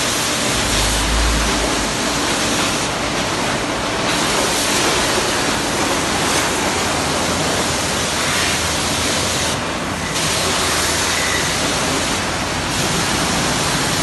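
High-pressure sprayer hissing steadily as it sprays cleaning solution onto a car, easing off briefly three times.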